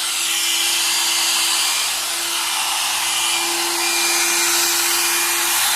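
One-step hot air brush (hair dryer and styler) running on its low setting: a steady, noisy rush of blown air over a constant motor hum.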